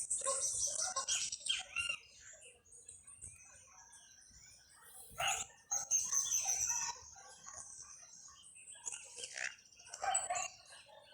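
Birds chirping and singing in short high-pitched bursts, busiest in the first two seconds, again around the middle and near the end.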